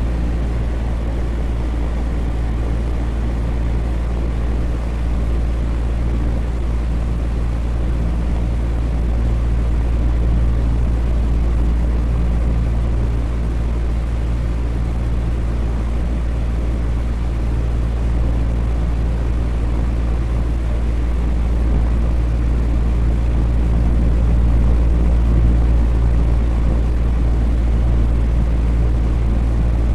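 Electric fan running steadily: a constant low drone of moving air with a deep hum under it.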